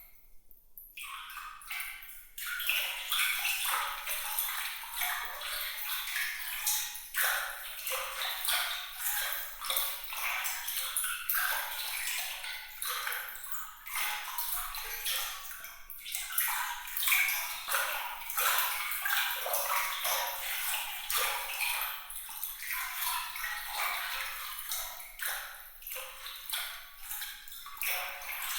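Bright, high water sound: a dense, irregular patter of small splashes and droplets with little pinging sounds, with almost no low end. It is nearly absent for the first second or two, then carries on without a break.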